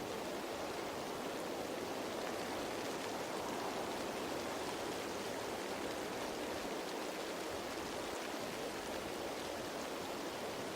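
Steady rain falling on leaves, an even hiss of many small drops with no single drop standing out.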